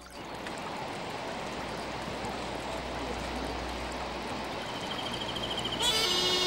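Rushing mountain stream: a steady wash of water noise that grows slightly louder. Near the end a bright sustained tone with many overtones starts abruptly over it and is the loudest sound.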